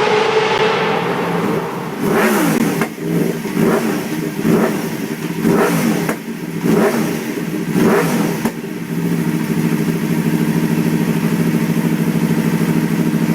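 Sport bike engine revving: its note falls off at first, then the throttle is blipped about seven times in quick succession, each rev rising and dropping back, before it settles to a steady idle.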